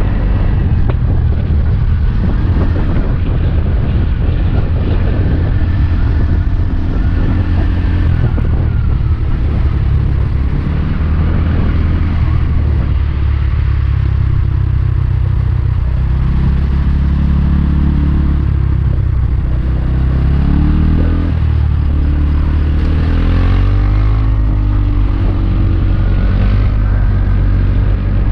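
Small motorbike or scooter engine running on the move. Its pitch holds fairly steady, then rises and falls a few times about two-thirds of the way through as the throttle changes.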